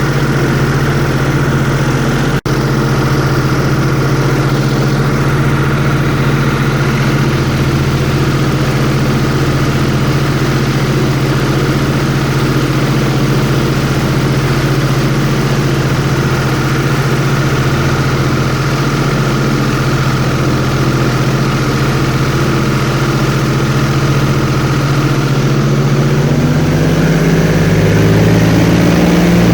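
Airboat engine and propeller running at a steady speed, with a pitch that rises over the last few seconds as it speeds up.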